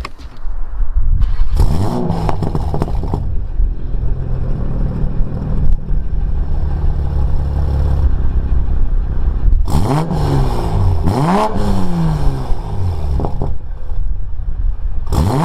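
Tuned 2020 Toyota Supra's turbocharged inline-six with an aftermarket Magnaflow exhaust starting up with a rev flare, then settling to a steady idle. It is revved twice in quick succession about ten seconds in, and once more near the end.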